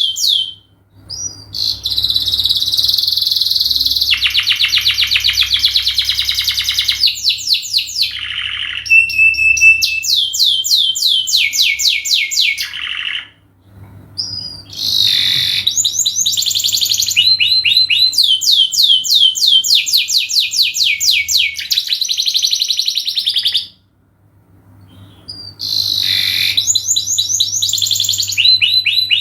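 Domestic canary singing long, unbroken phrases of rapid trills and quick rising and falling notes. It pauses briefly about halfway through and again some seconds before the end.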